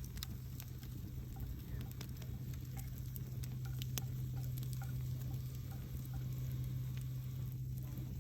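Wood campfire crackling, with scattered sharp pops at irregular intervals over a steady low rumble.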